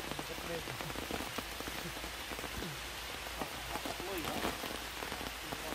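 Steady heavy rain falling, an even hiss of drops on the surfaces all around.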